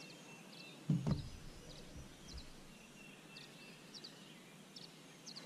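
Small birds chirping, short high notes repeating every half second or so, over a faint steady hiss. About a second in comes one heavy low thump on the bass boat's deck as the angler stands up from his seat.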